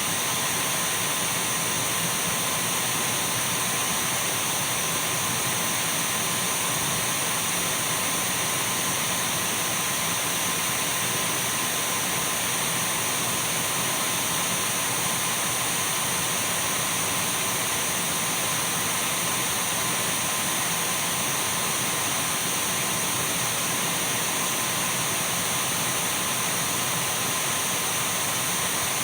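Dyson V12 cordless stick vacuum running steadily: an even rushing noise with a thin, steady whine over it, unchanging throughout.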